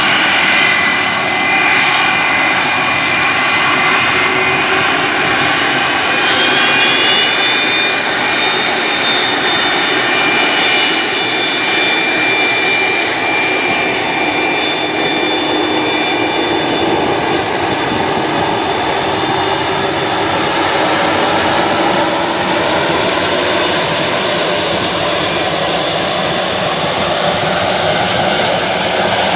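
Boeing 757-200 freighter's twin jet engines running at high thrust on departure: a loud, steady jet noise with a high whine. The whine rises in pitch about a quarter of the way in and fades out about halfway through, while the broad jet noise carries on.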